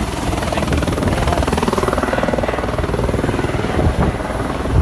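Airbus EC130 Eco-Star helicopter running steadily, its turbine and rotor making a loud, even chopping noise.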